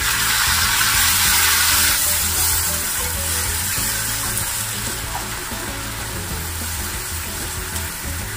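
Sliced onions and freshly added tomato pieces sizzling in hot oil and butter in an iron kadhai while a spatula stirs them. The sizzle is strongest in the first two seconds, then eases a little as the tomatoes' moisture cools the pan.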